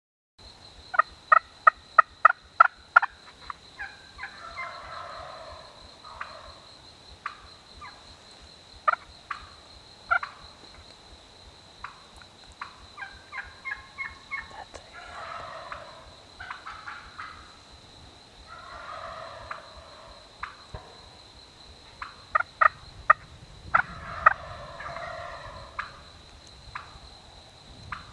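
Wild turkey gobbling several times, answered by runs of sharp turkey yelps at about four a second, which are the loudest sounds. A steady high-pitched tone runs underneath, and a low rumble comes in near the end.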